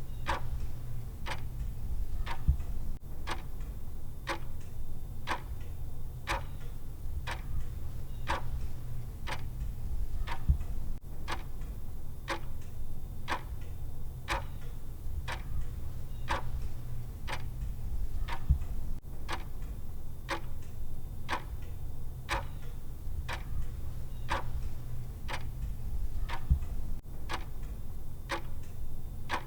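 Clock ticking evenly, about once a second, over a low steady rumble.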